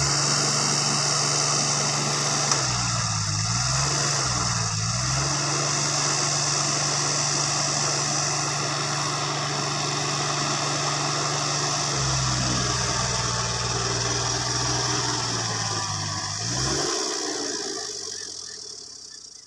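Heavy machinery's diesel engine running steadily. It dips in pitch twice in the first five seconds as if briefly loaded, then its pitch drops and the sound fades away near the end.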